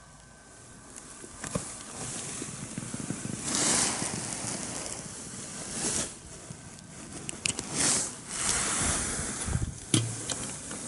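Wind gusting across the microphone, a rushing noise that swells and eases every couple of seconds, with a few short clicks.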